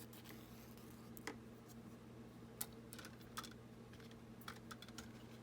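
Scattered light clicks of small beads being handled and threaded onto string, a dozen or so irregular ticks over a faint steady hum.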